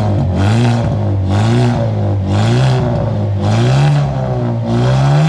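Hyundai Elantra N's turbocharged four-cylinder engine, heard from the exhaust tip, revved in short blips about once a second, its note rising and falling each time. The engine has just been started for the first time after the TCR build.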